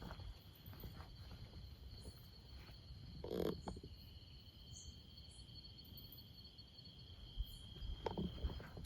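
Forest insects calling in a steady high chorus of two tones, with a short louder rustle-like sound about three and a half seconds in and a few more near the end.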